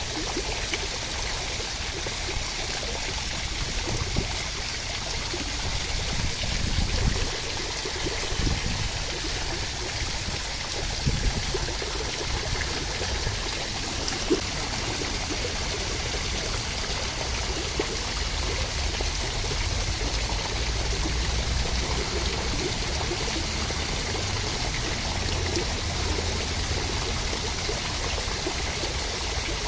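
Steady rain: an even rush of falling water, with a few brief louder taps.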